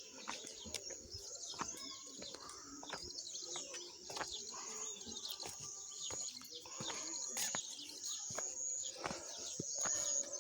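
Birds chirping and calling over one another, with a high-pitched trill that comes and goes.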